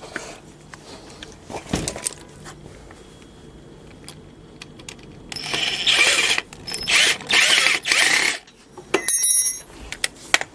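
Lawn mower parts and hand tools being worked by hand while a part is fitted and screwed in: three rasping bursts in the second half, then a run of quick clicks near the end.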